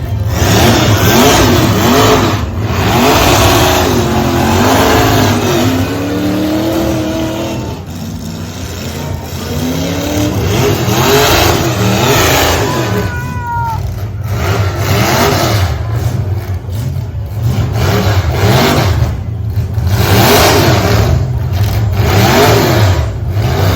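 Demolition derby truck engines revving hard, their pitch rising and falling again and again, with a brief high squeal about halfway through.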